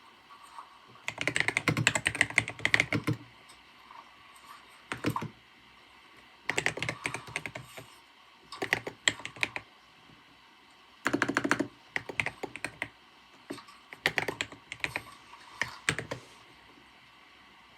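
Typing on a computer keyboard in short bursts of rapid key clicks, with brief pauses between them; the typing stops near the end.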